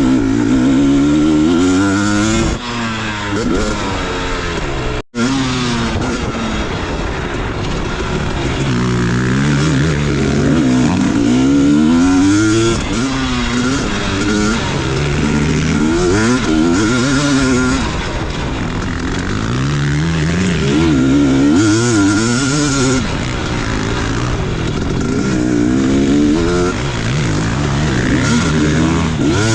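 Motocross dirt bike engine revving hard and backing off again and again as it is ridden around a track, its pitch climbing and dropping through the gears. The sound cuts out for a split second about five seconds in.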